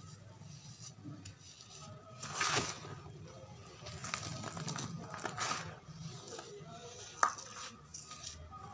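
Pressed charcoal bars being crumbled, crunching and breaking apart in a few separate bursts, with a sharp snap a little after seven seconds in.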